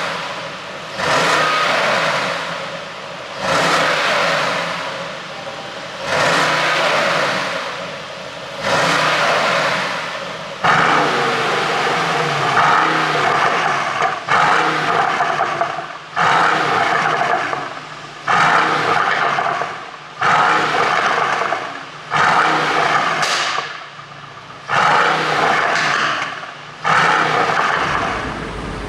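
Mercedes-AMG GT C Roadster's 4.0-litre twin-turbo V8 revved in a series of short blips about every two seconds, each rev falling away with overrun crackles and pops from a pop-and-bang ECU tune.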